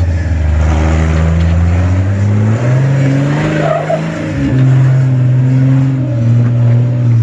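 Jeep's engine working under load as it crawls over boulders, the revs stepping up about two and a half seconds in, dipping briefly, then holding at the higher pitch.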